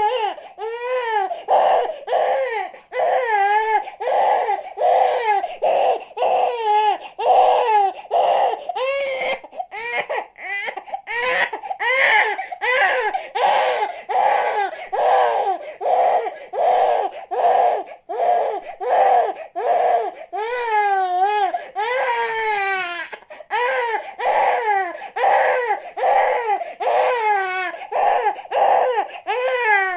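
Newborn baby crying: rapid repeated high-pitched wails, each about half a second long, with a few longer drawn-out cries in the middle.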